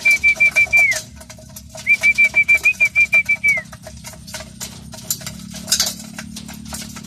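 A pigeon keeper's trilled feeding whistle: one steady high note pulsing about seven times a second, in two blasts, each dropping in pitch as it stops. The first ends about a second in; the second runs from about two to three and a half seconds in. Faint rapid clicking sounds beneath it throughout.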